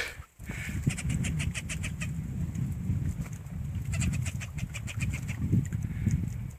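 A diving bird giving a rapid, chattering alarm call, about ten notes a second, in two bouts a few seconds apart, over a steady low rumble.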